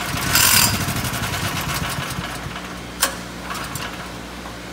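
Ryobi 5500-watt Easy Start portable generator's gasoline engine firing after a pull and running unevenly for about three seconds, then cutting out with a sharp click and a short sputter. The engine starts but will not keep running.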